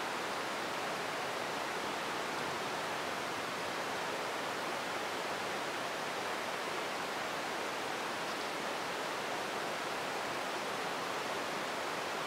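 Heavy rain falling steadily onto the ground: a dense, even hiss of drops with no let-up.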